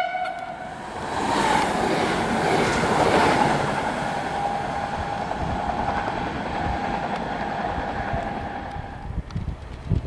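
Koleje Śląskie electric multiple unit (21WEa) running past on the rails: wheel and rail noise swells over the first few seconds as it passes. About halfway through a steady high whine joins in, and the sound fades out near the end as the train moves away.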